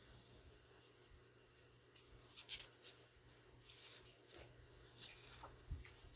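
Faint rustling and a few light taps of hands handling craft materials on a desk, over a low steady hum.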